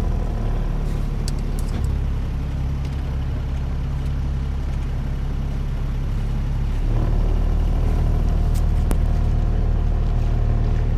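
A sailboat's auxiliary engine runs steadily under way. About seven seconds in, its note steps up and it runs louder as the throttle is opened.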